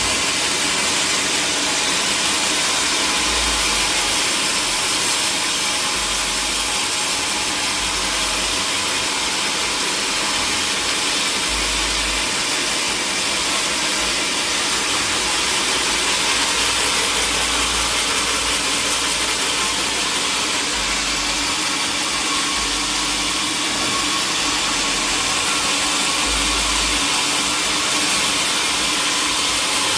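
Sawmill machinery running with a loud, steady noise, typical of a mill saw working through timber.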